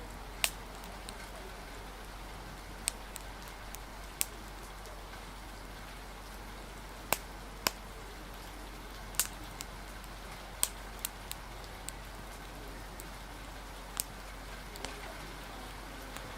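Steady rain hiss with about a dozen sharp, scattered pops and clicks, as from a crackling fire or single drops.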